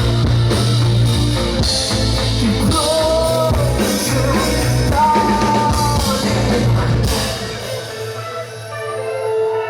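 Live rock band playing with a sung vocal line over drum kit and bass. The band stops about seven seconds in, leaving one held note ringing.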